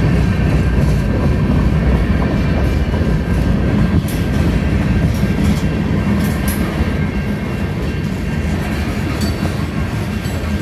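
Freight train cars rolling through a grade crossing: a loud, steady rumble of steel wheels on the rails that eases slightly toward the end.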